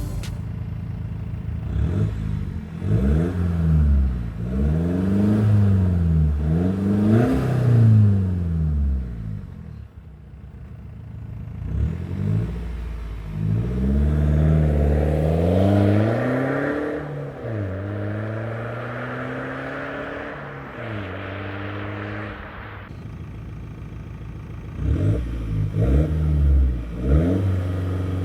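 BMW 320d's two-litre four-cylinder turbodiesel, with both exhaust silencers removed, revved in repeated quick blips that rise and fall. The revving comes in bursts, with a steadier idle-like stretch in the middle and more blips near the end.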